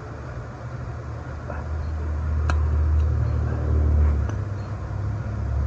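Steady low engine-like rumble that swells louder through the middle, with one sharp metallic click about two and a half seconds in as the C-clip snaps into its groove in the hub.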